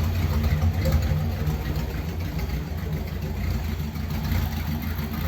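Ford Thunderbird engine idling, a little rough, shortly after being started after standing unused for a long time.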